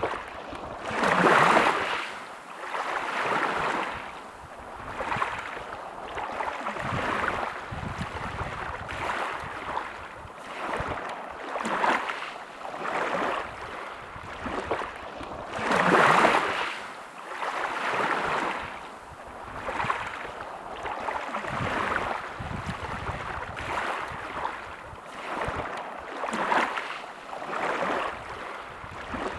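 Sea waves washing in on a beach, the surf swelling and fading every second or two, with bigger waves breaking about a second in and again midway.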